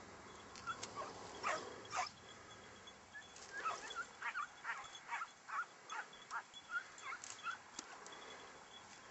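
Kopoy scent hound baying on a hare's trail: short, high yelping bays, a few in the first two seconds, then a quicker run of about a dozen through the middle.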